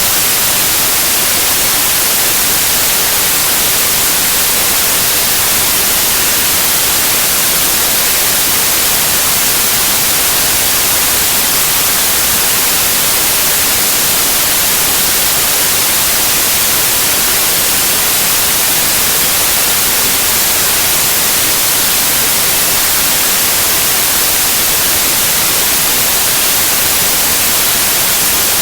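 Steady white noise: an even, unchanging hiss with a bright, high-pitched edge, no rises, falls or breaks.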